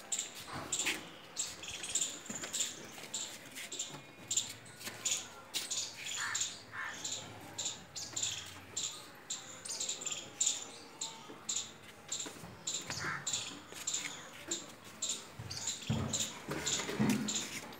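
Small birds chirping busily: short, high chirps several times a second, on and on, with a brief muffled low sound near the end.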